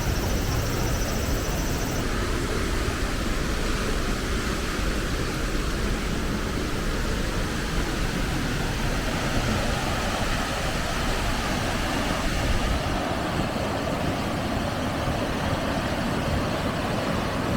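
Waterfall running in heavy flood flow, swollen after a typhoon: a steady, loud rushing of falling water.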